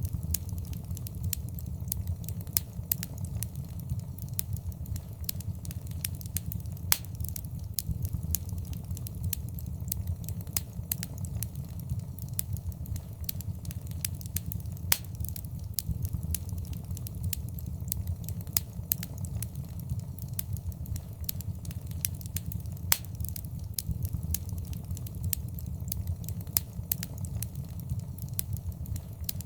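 Fireplace fire crackling: a steady low rumble of burning with frequent sharp pops and snaps, a few of them louder.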